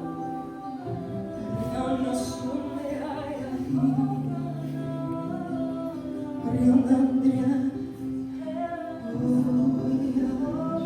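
Live worship music: held instrumental chords with a voice singing long wordless notes over them.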